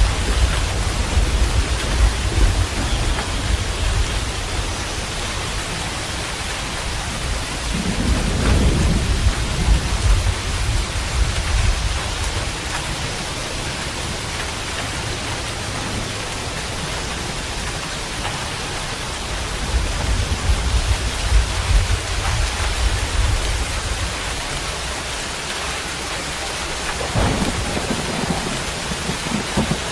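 Steady rain hissing, with low rolls of thunder swelling and fading four times: at the start, about eight seconds in, about twenty seconds in, and near the end.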